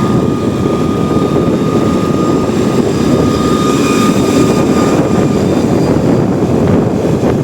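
Vehicle moving along a road: a steady rumble of engine and wind noise, with a thin whine that fades out about five seconds in.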